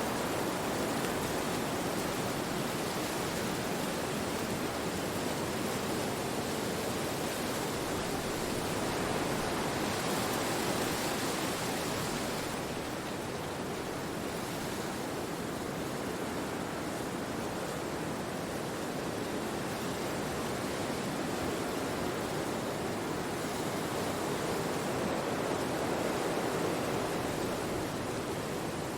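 Wind blowing through forest trees: a steady rushing that swells slightly about ten seconds in and eases off a couple of seconds later.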